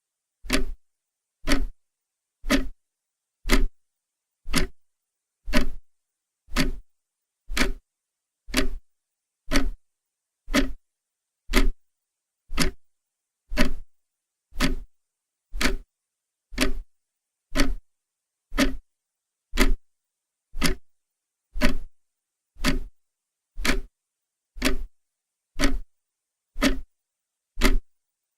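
Clock ticking steadily, one sharp tick about every second with silence between the ticks.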